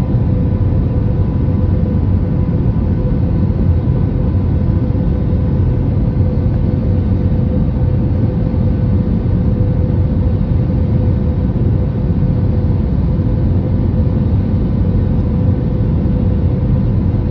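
Steady airliner cabin noise during the landing approach: a dense, even rumble of engines and airflow with a faint steady hum, unchanging throughout.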